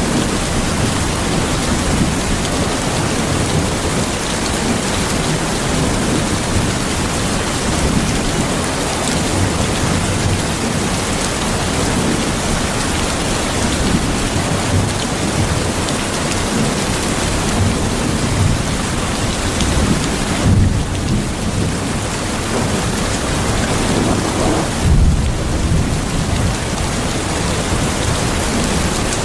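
Steady heavy rain with a low rumble beneath it. The rumble swells twice in the last third.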